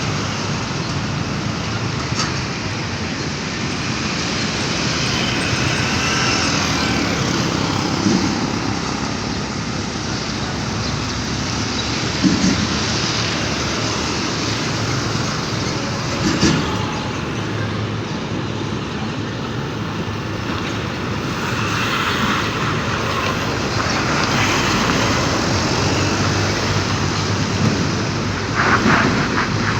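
Road traffic noise: a steady rush of passing heavy vehicles, with a few brief knocks and clatters.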